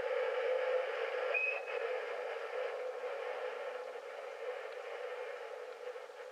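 Train rolling past, its running noise slowly fading, with a brief high wheel squeal about a second and a half in.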